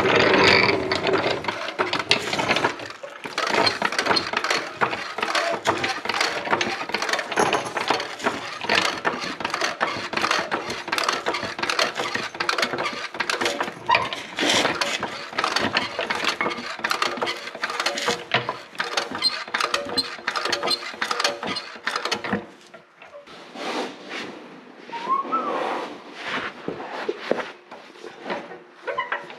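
A bent 3/16-inch steel plate being worked into place with a jack under a tractor's oil pan: dense, irregular metal clanks, rattles and scrapes, busiest for the first twenty seconds or so, then sparser and quieter.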